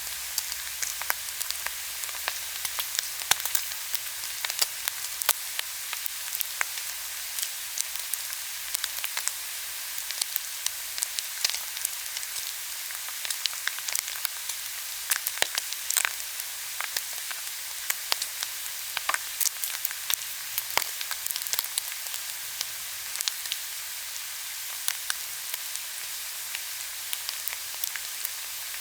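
Pork belly sizzling on a hot grill: a steady hiss of frying fat broken by frequent sharp crackles and pops.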